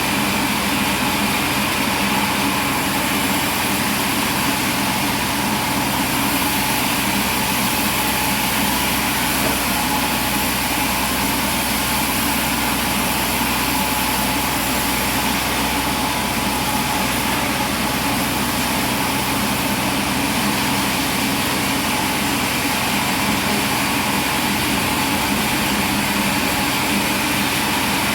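Machinery engine or motor running steadily at a constant level, an even hum with no change in pitch or load.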